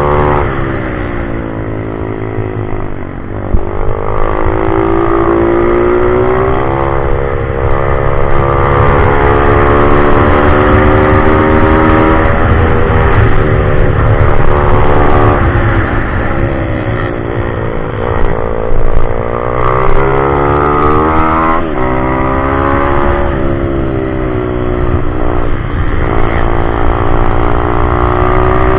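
Single-cylinder pit bike engine running hard, its pitch repeatedly climbing and dropping every few seconds as the bike accelerates and slows through a lap.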